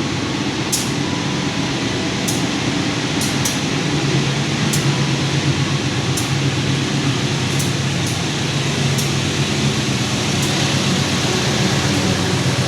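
Container freight train running on the rails: a steady rumble with short, sharp clicks coming every second or so at uneven intervals.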